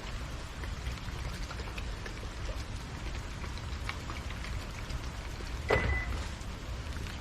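Steady patter of water falling on surfaces, with scattered drop ticks. About two-thirds of the way through there is a short, high beep.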